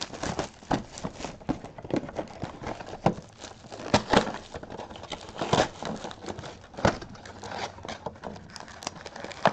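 A sealed cardboard mega box of trading cards being opened by hand, with irregular knocks, taps and crinkling of wrapping.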